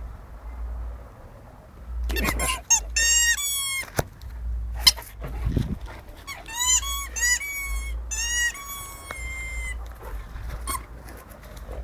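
A Boerboel dog chewing on a squeaky toy, making two runs of rapid, high-pitched squeaks: one about two seconds in, a longer one from about six seconds.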